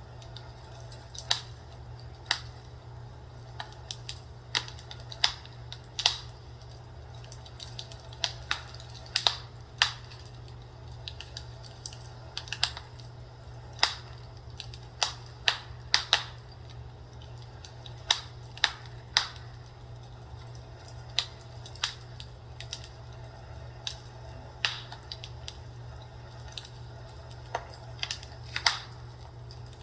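Fireplace crackling: irregular sharp pops and snaps, a few a second at uneven intervals, over a steady low hum.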